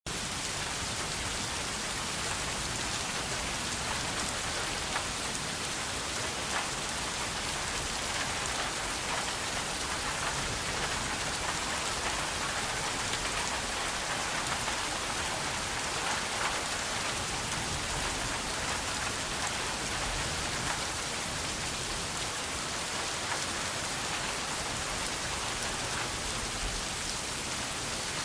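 Steady rain falling, a continuous even hiss of drops with faint scattered ticks.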